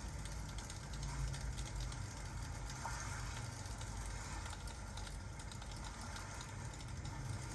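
Fireplace crackling with scattered small pops over a steady hiss of rain and a constant low rumble.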